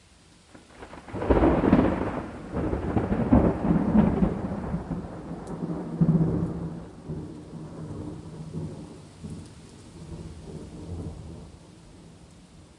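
A thunderclap over steady rain: it breaks about a second in, rumbles loudly in several surges for a few seconds, then slowly dies away into the rain.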